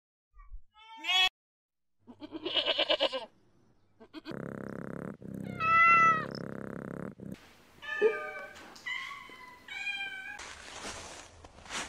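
A goat bleating twice, the second bleat wavering, then a cat giving one long meow over a steady hum, followed by a run of short, higher mews from kittens.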